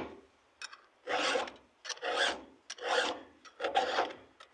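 Chainsaw file in a handle rasping across a chain tooth: four even sharpening strokes, about one a second, each with a light click as the file is set against the tooth.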